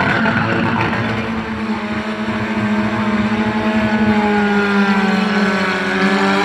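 Two cars' engines held at high revs while they drift in smoking circles, pitch wavering slightly, with spinning tyres on asphalt.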